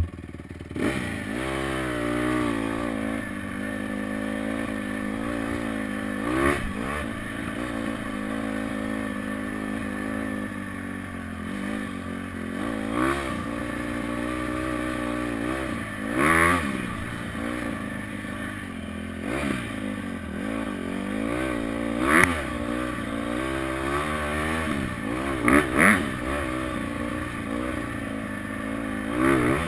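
Honda CRF four-stroke dirt bike engine being ridden hard, revving up and falling back again and again, with its pitch rising and dropping every second or two. A few short, loud knocks cut through the engine sound.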